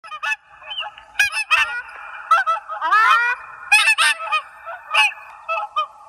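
Waterfowl honking: a steady flurry of short honks from several birds, overlapping, with a run of rising calls about three seconds in.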